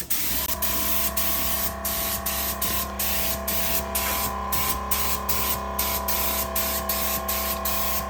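Air-fed paint spray gun hissing, the spray stopping for an instant again and again between passes. Steady background music comes in about half a second in.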